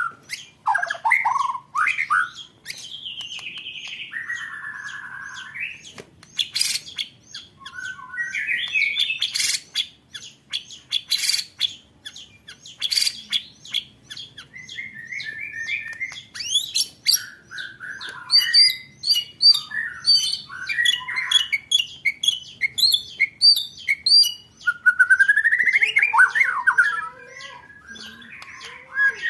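White-rumped shama (murai batu) competition song: a varied, continuous run of whistled rising and falling phrases, sharp click-like notes and fast chattering trills, the rapid 'roll tembakan' shooting rolls used as masteran training material.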